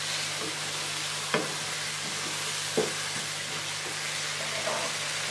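Chicken, pea and potato curry sizzling as it fries in a pan while a wooden spatula stirs it, with two sharp knocks of the spatula against the pan about a second and a half and three seconds in.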